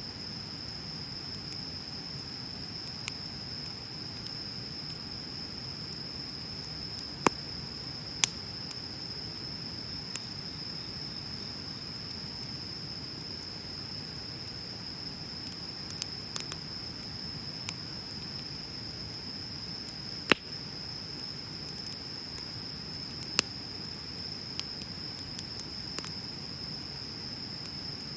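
Wood bonfire burning with a low steady rustle and scattered sharp crackles and pops, the loudest about 7, 8, 20 and 23 seconds in. A steady high-pitched insect trill runs underneath throughout.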